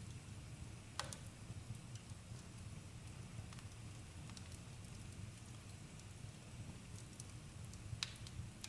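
Campfire burning with a faint, steady low rumble and scattered crackles, the two sharpest pops about a second in and near the end.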